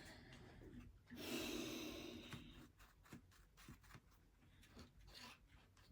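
A soft sigh starting about a second in and lasting about a second and a half, then a few faint scattered taps; otherwise near silence.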